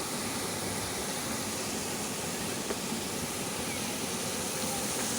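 Fountain water spraying and splashing, a steady rushing noise.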